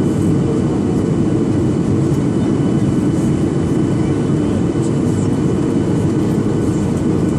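Steady noise of a Boeing 737-800 in flight: a constant low rumble of jet engines and rushing air with a faint steady high whine over it.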